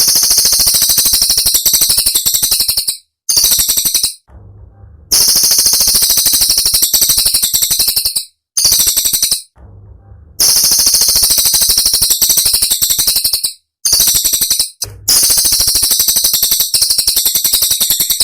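Cililin songbird singing its sharp 'tembakan' phrases: very rapid, high-pitched rattling trills in loud bursts of one to three seconds, with short pauses between them, the same phrases coming round again.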